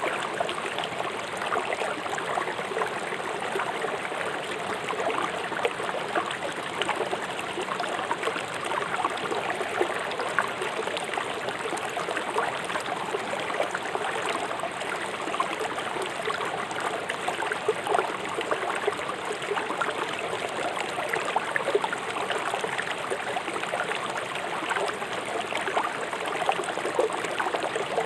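River water rushing over stones: a steady, dense babble and splashing with no let-up.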